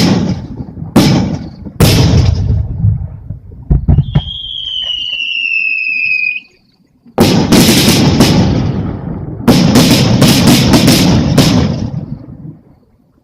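Fireworks display: a few sharp bangs of shells bursting, then a high whistle lasting about two seconds. After a short break, a long run of booms and crackling starts about seven seconds in and fades out near the end.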